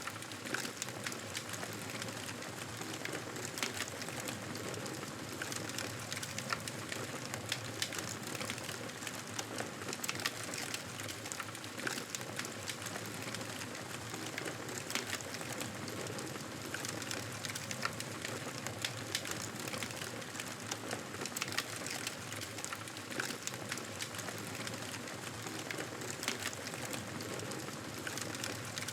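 Wood fire crackling in a fireplace: a steady hiss with frequent small sharp crackles and pops.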